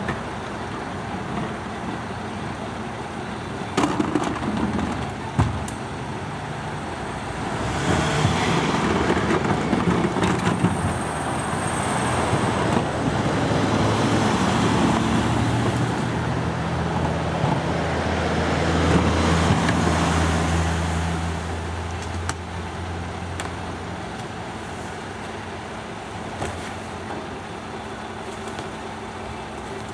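Garbage truck running; a couple of sharp knocks a few seconds in, then the engine comes up louder with a hiss for about fourteen seconds before settling back to a steady lower run.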